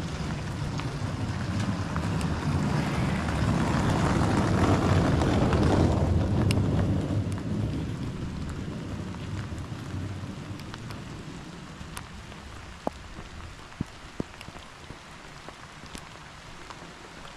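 Rain falling, with scattered drips. A low rumble passes through it, swelling to a peak about five seconds in and fading away by about ten seconds.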